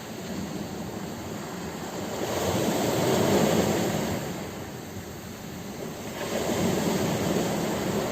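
Ocean waves breaking on a shore, a steady surf wash that swells twice as two waves crash, one about three seconds in and one near the end.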